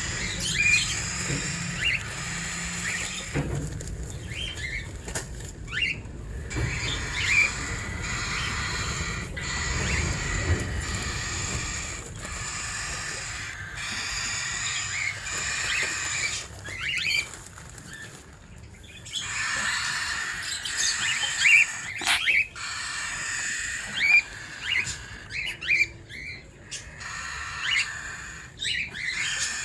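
Cockatiels giving short chirps again and again over a steady background hiss, with a few flutters and knocks.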